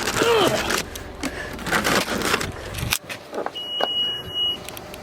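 Keys jangling and clicking around a car, a sharp thud about three seconds in that cuts off the outside background, then a single steady high beep lasting about a second.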